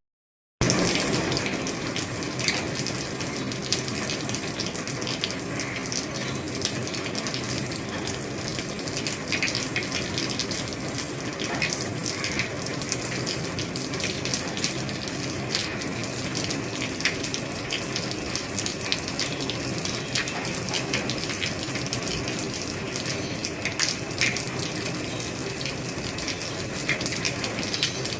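Heavy rain falling on an old roof: a steady, even patter with many sharp individual drop ticks. It starts after a brief gap, and a faint, thin, high steady whine joins about halfway through.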